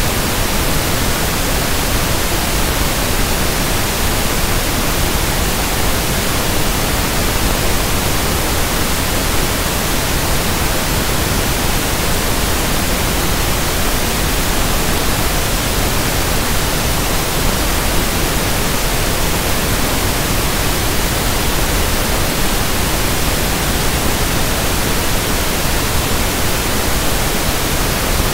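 Steady, loud synthetic pink noise (1/f noise): an even, unchanging hiss with no tones or events.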